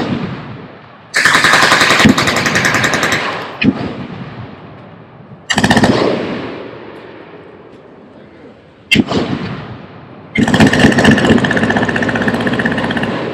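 Machine guns firing in bursts of rapid automatic fire, three bursts with a few single shots between them. Each burst is followed by a long rolling echo that fades over a few seconds.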